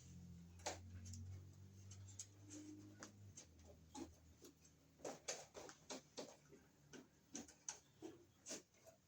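Faint scattered clicks and light taps of small-part handling, with a low steady hum that stops about three seconds in.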